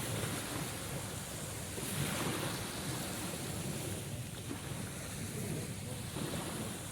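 Sea waves washing in, a steady rushing surf that swells a little about two seconds in, with some wind.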